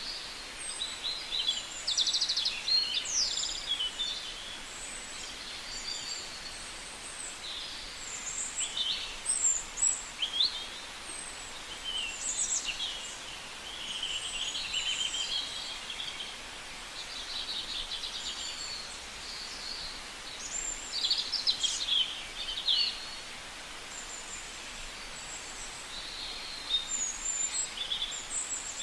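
Birds chirping and calling in clusters of short, high calls over a steady outdoor hiss, with several louder bursts of calling.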